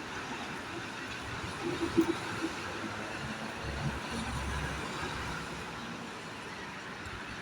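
Steady rumble of a passing train fading off, with a few short metallic knocks about two seconds in.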